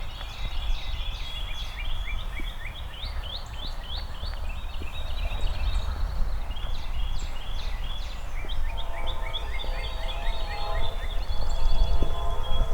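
Songbirds singing, with quick repeated chirps in fast runs, over a low outdoor rumble. About two-thirds of the way in, a steady hum made of several held tones joins and continues to the end.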